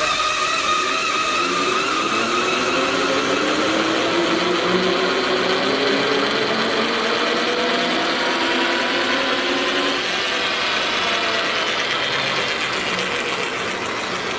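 LeBlond hollow-spindle engine lathe's headstock gearing running the spindle up to speed. It gives a gear whine that rises in pitch over the first several seconds and then holds steady, at the 400 RPM speed setting.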